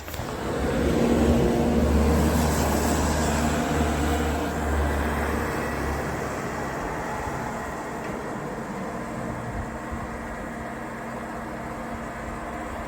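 A motor vehicle driving past on a snowy street: a low engine rumble swells in the first second, holds for several seconds, then fades to a quieter steady hum.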